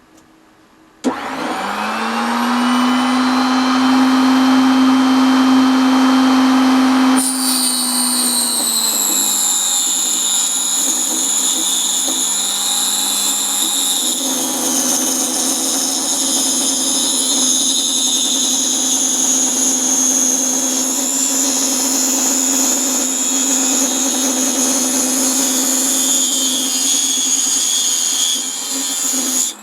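Proxxon KS 230 miniature table saw switched on about a second in, its motor whining up to speed and running free. From about seven seconds on, the blade cuts through thin 3 mm plywood with a higher, harsher whine. It is switched off right at the end.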